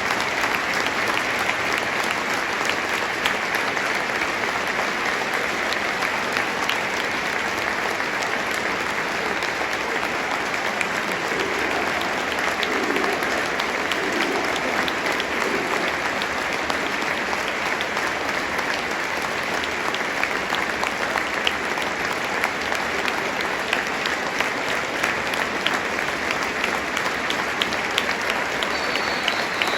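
Large stadium crowd applauding, a dense, steady patter of clapping.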